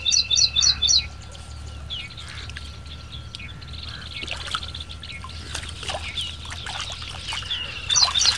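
A bird calling: a quick run of about five sharp notes over a steady high whistle, at the start and again near the end. In between, water splashing and sloshing as a hooked catfish is handled in the shallows.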